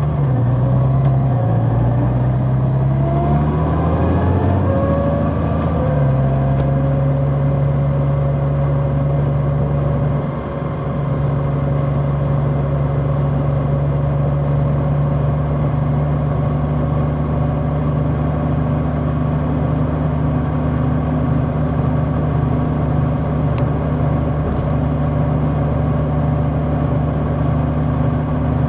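Large motorcycle engine heard from on board, rising in pitch through a few stepped gear changes over the first six seconds, then running at a steady cruise.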